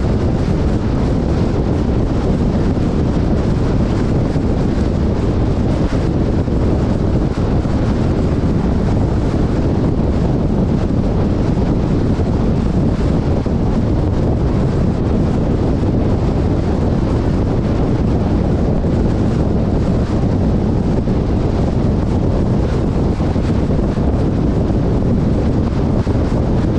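Steady, loud wind rumble buffeting the microphone, with a moving vehicle's noise underneath and no clear engine note.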